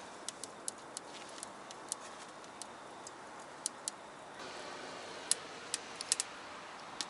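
Wood fire crackling in a Sho's Bonfire Box Easy folding wood stove as it catches: sharp, irregular pops over a steady low hiss. The hiss gets slightly louder about halfway through.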